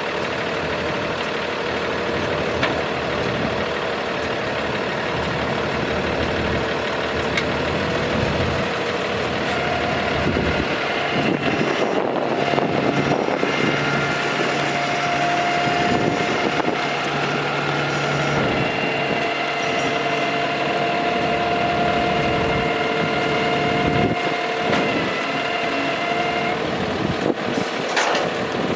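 Cummins ISB diesel of a Freightliner M2 dump truck running steadily. A steady whine joins in about a third of the way through and stops near the end, and there is one short sharp sound just before the end.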